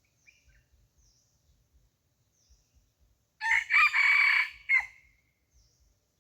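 A red junglefowl cockerel crows once, about halfway through, a short crow of about a second and a half with a clipped final note.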